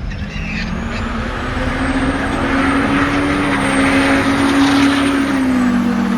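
Diesel pickup truck engine running hard under load. It climbs in pitch and grows louder, holds high, then drops back near the end.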